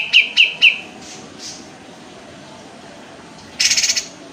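Kapas tembak songbird calling: a quick run of sharp chirps, about four a second, that stops just under a second in, then a short harsh rattle near the end.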